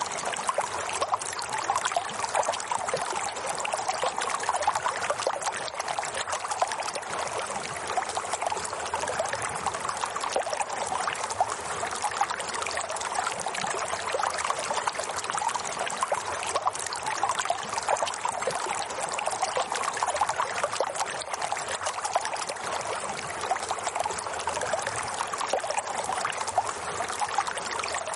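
Steady running water, with an even, bubbling texture.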